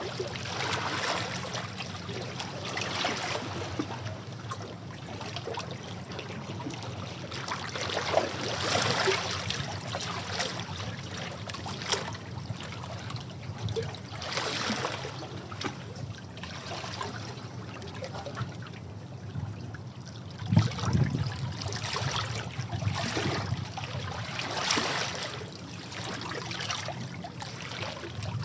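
Sea waves washing against rocks, surging and falling back in irregular swells every few seconds. The strongest splash comes about three quarters of the way through.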